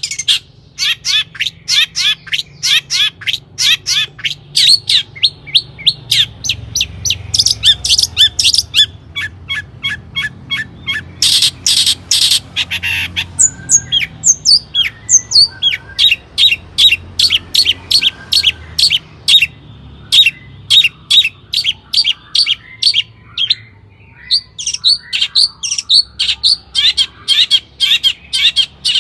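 Long-tailed shrike (cendet) singing: fast runs of short, sharp, high notes repeated many times a second, broken by brief pauses.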